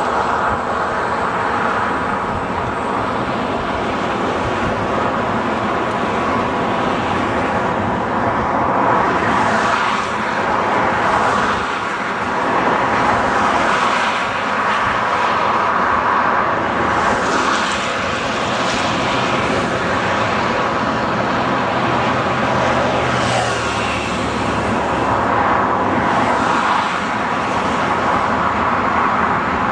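Sr1 electric locomotive running light past the crossing: a steady electric hum with several held tones over a continuous rushing noise, which rises and falls slightly through the passage.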